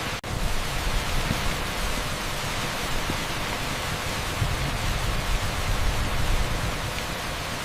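Torrential rain pouring on an asphalt street, a dense steady hiss blended with pink noise. A split-second dropout breaks it just after the start.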